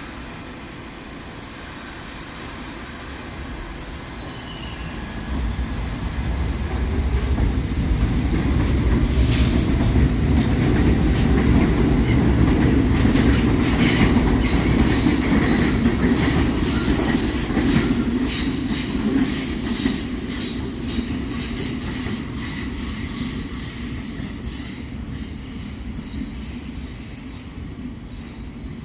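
Subway train running on steel rails. It grows louder from about five seconds in, is loudest through the middle, then fades. Thin, high wheel squeal rings out in the second half.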